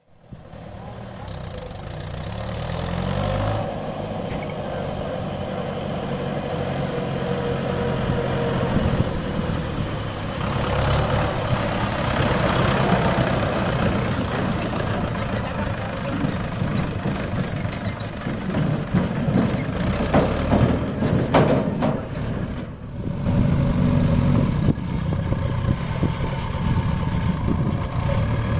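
Tractor diesel engine running. It revs up over the first few seconds, then holds a steady pitch, with scattered knocks and rattles.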